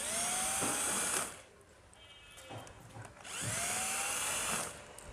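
Handheld power drill run in two short bursts about two seconds apart, its motor whining up in pitch and then holding speed before stopping.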